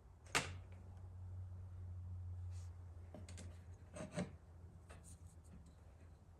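Art materials being handled on a work surface: a sharp tap about half a second in, then a few lighter knocks and rubs, over a low steady hum.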